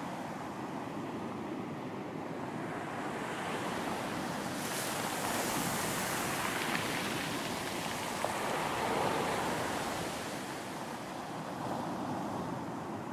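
Ocean waves breaking on a beach, a wave building and washing in about five seconds in and easing off near the end, with some wind.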